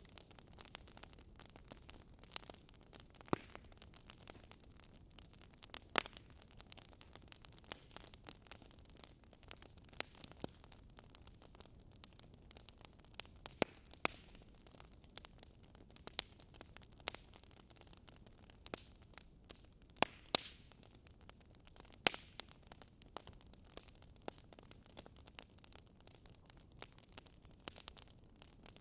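Fire crackling: irregular sharp pops, one every second or so, over a faint steady hiss.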